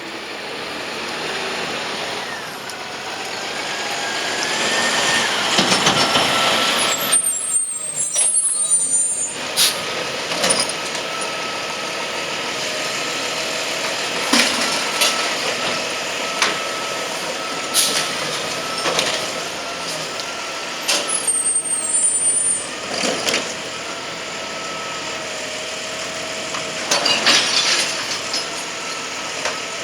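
Garbage truck at work: engine and hydraulics running with a steady whine that rises early on, air brakes hissing twice, and sharp clanks and bangs every few seconds.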